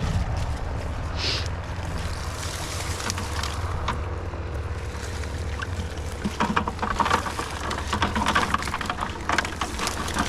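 A steady low rumble, with a dense flurry of quick clicks and taps over a few seconds in the second half.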